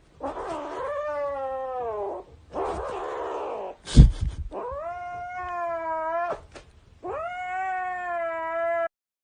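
A cat yowling in long, drawn-out meows, three or four of them, each one to two seconds long. A loud knock about four seconds in.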